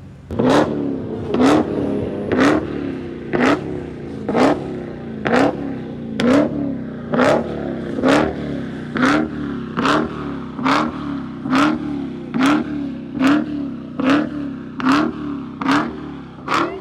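A car engine revved in short, sharp throttle blips over a steady idle, about one a second and slowly quickening, with a crack on each blip.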